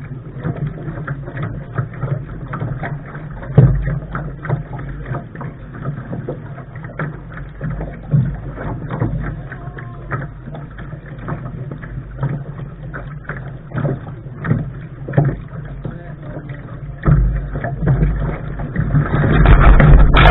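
Lark sailing dinghy under way, heard from the bow: a steady low wind rumble on the microphone with frequent short knocks and splashes of water against the hull. The rumble and splashing grow louder near the end.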